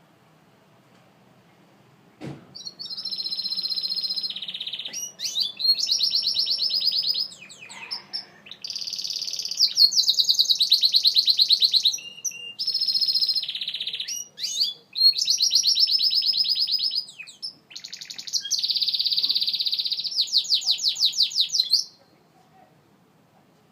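Gloster canary singing: a string of rapid trilled phrases, one after another with brief breaks. It starts about two seconds in, just after a single click, and stops shortly before the end.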